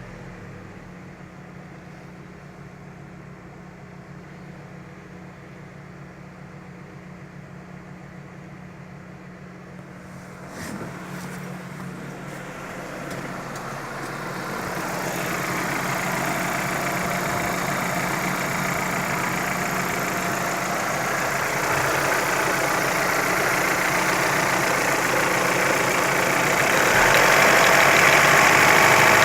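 Car engine idling steadily, the engine being checked for a knock. A single click about ten seconds in, then the engine sound grows louder from about halfway through.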